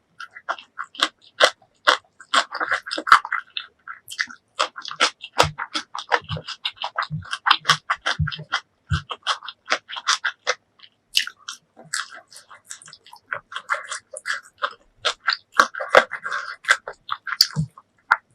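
Close-miked eating of a chicken masala curry and cucumber salad meal: chewing and wet mouth sounds in a dense run of sharp clicks and crackles, with stretches of squishy chewing. A series of low thuds comes about five to nine seconds in.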